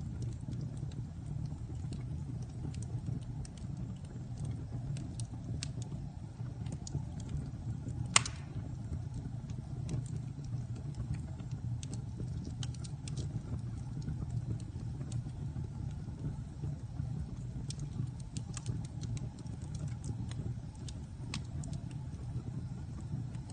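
Wood fire burning in a fireplace: a steady low rush of flames with scattered crackles, and one loud pop about eight seconds in.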